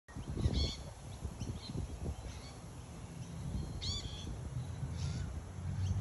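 Wild birds calling: a handful of short, clear calls about a second apart, the loudest about four seconds in, over a low rumble.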